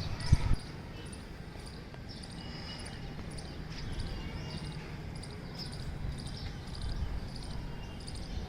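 Short, high chirps from small creatures in the garden, repeating irregularly a few times a second over a low outdoor rumble, with one sharp knock about a third of a second in.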